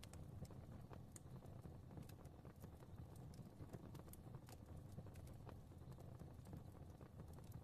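Fire crackling softly: irregular small pops and snaps over a low, steady rumble.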